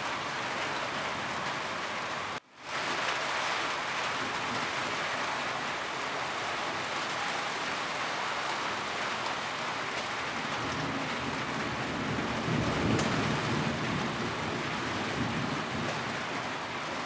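Steady rain falling on a roof, an even hiss of many drops. About two and a half seconds in, the sound cuts out to near silence for a fraction of a second and comes straight back, and a low rumble swells and fades around two-thirds of the way through.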